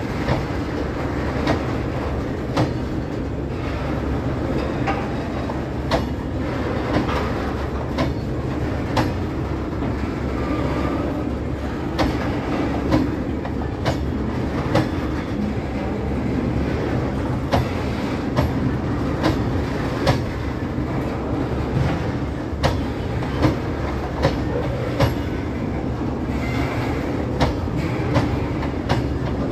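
Freight wagons rolling past on steel wheels under cast-steel coil-spring bogies, a steady rumble with a sharp clack roughly once a second, sometimes two close together, as the wheels strike a fishplated rail joint.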